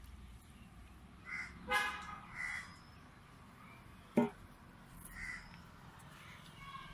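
Birds calling a few times, short separate calls, with one brief sharp sound about four seconds in.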